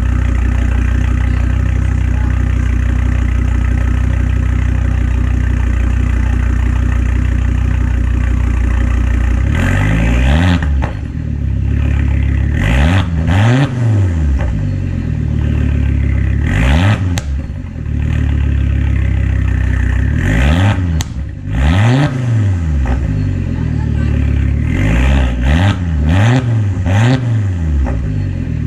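2006 Volvo S60R's turbocharged inline-five idling steadily through a new catless downpipe and custom cat-back exhaust with an open blast-pipe outlet, then about ten seconds in revved again and again, rising and falling in pitch up to around 4,500–5,000 rpm.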